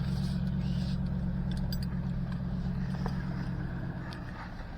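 Ford 7.3 Power Stroke turbodiesel V8 running at a steady low speed as the truck crawls a rough trail, a steady low drone that eases off slightly near the end, with a few faint knocks.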